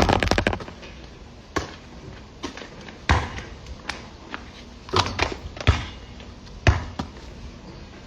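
Basketball bouncing on a court: a quick run of bounces at the start, then single bounces at uneven intervals.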